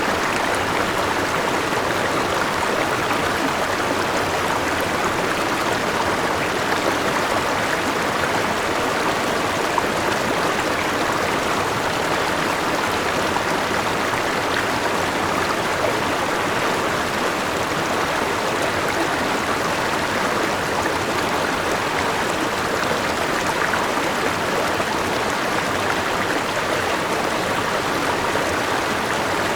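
Forest river running over rocks and a small waterfall: a steady, even rush of water.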